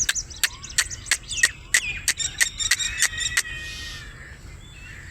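Birds calling: a rapid run of sharp clicking notes and short chirps for about three and a half seconds, then only fainter scattered chirps.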